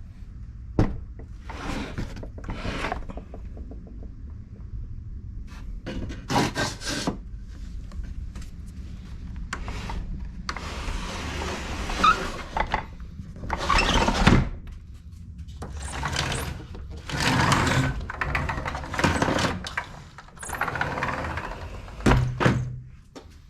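Wood being handled and worked by hand: a series of scraping, rubbing strokes with knocks in between.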